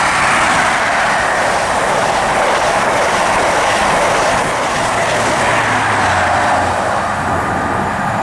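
An InterCity 125 (HST) passing through the station at speed: a loud, steady rush of wheels on rail that eases a little in the second half. A low drone joins about five seconds in.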